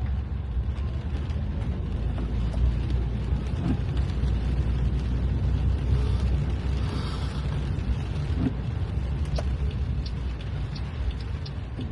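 Steady low rumble of a car's engine and road noise heard from inside the cabin, with a few faint ticks.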